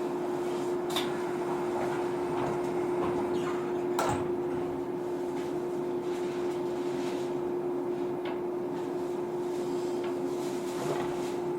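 Inside a JR 115 series electric train car pulling away from a station: a steady electrical hum with running noise, broken by two sharp clunks about one second and four seconds in.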